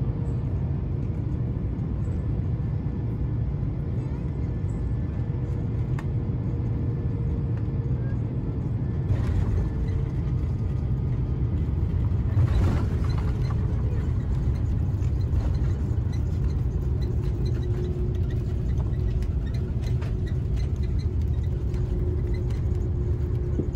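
Steady low rumble heard inside a moving vehicle's cabin, with a short rattle about nine seconds in and a brief louder knock about twelve and a half seconds in.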